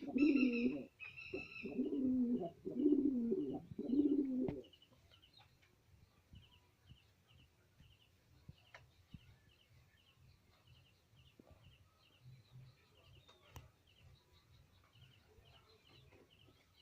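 Domestic pigeons in a loft: several low, second-long coos in the first four and a half seconds, then quiet. Faint, rapid high chirping from another bird runs throughout, with a few light clicks.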